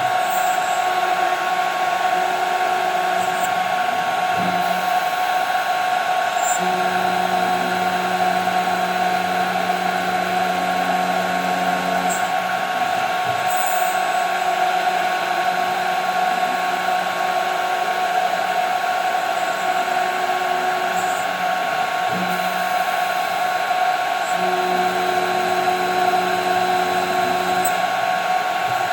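CNC machine milling 5 mm plexiglass: the spindle runs at a steady high pitch throughout, while lower motor tones from the axis drives start and stop every few seconds as the cutter moves.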